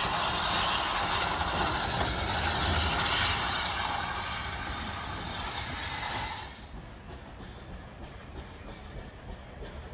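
Steam train running past, with steam hiss and wheel clatter on the rails; the loud sound drops away sharply about two-thirds of the way through, leaving a faint low rumble.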